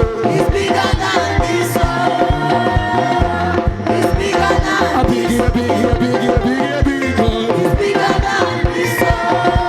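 Live praise and worship music: a band with a steady drum beat and hand percussion, with singing.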